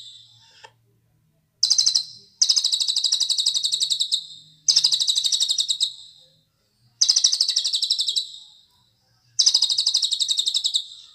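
Cililin songbird singing five trilled phrases, each a fast run of evenly repeated high notes lasting one to two seconds, with short pauses between them.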